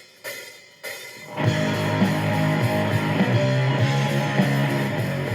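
A rock song with electric guitar and drums starting up: a few separate crashing drum-and-cymbal hits, then about a second and a half in the full band comes in and keeps playing at a steady loud level.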